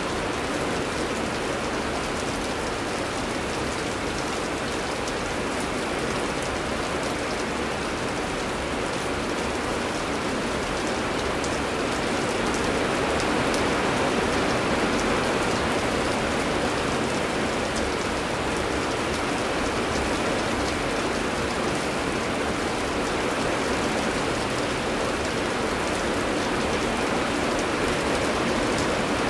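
Heavy rain falling steadily: a continuous dense hiss with fine drop patter, growing slightly heavier about twelve seconds in.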